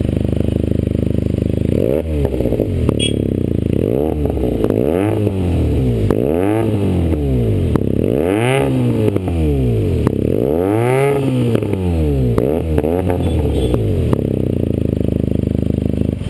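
Benelli TNT 300's parallel-twin engine, breathing through an IXIL aftermarket exhaust with its baffles removed, idling and then revved in a series of throttle blips. The engine note rises and falls about half a dozen times before it settles back to idle near the end.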